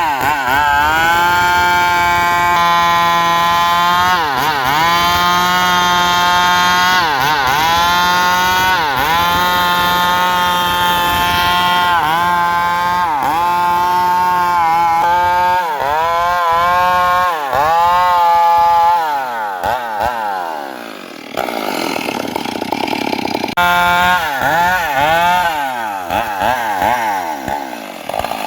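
Circular saw blade of a homemade diesel-driven sawmill ripping teak: a loud, high whine whose pitch sags each time the blade bites into the wood, then climbs back, over and over every second or two. A rougher, noisy stretch of a few seconds comes a little after two-thirds of the way through.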